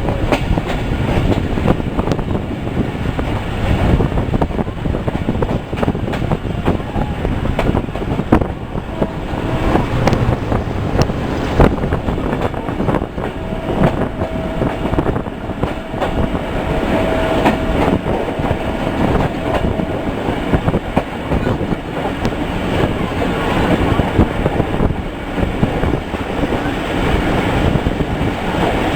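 Moving passenger train: a steady running rumble with the clickety-clack of wheels over rail joints. A faint thin whine holds for several seconds in the middle.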